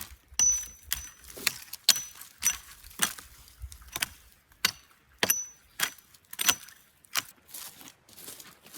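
Repeated sharp metallic strikes, about two a second, several leaving a brief high ring after the blow.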